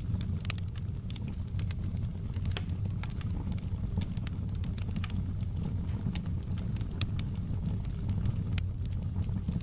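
Fireplace crackling: a steady low rumble of burning wood with irregular sharp pops and crackles, several a second.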